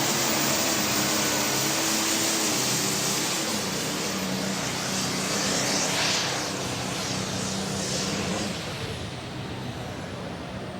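Diesel super stock pulling tractor's turbocharged engine running at full power down the track. It is loud and steady, then drops off about eight and a half seconds in as the run winds down.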